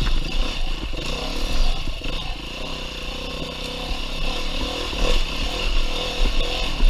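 2019 Beta 390 RR-S four-stroke single-cylinder dirt bike engine revving up and down as it is ridden over single track, with a few knocks from the bike over rough ground.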